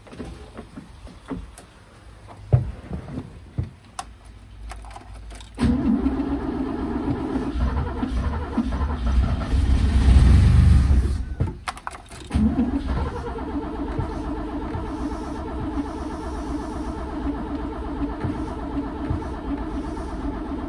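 A few clicks and knocks, then the 1963 Mercedes 220SEb's fuel-injected straight-six is started about five and a half seconds in and revs up. It cuts out briefly near the middle, starts again and runs steadily, with a rough idle that the owner puts down to overfuelling.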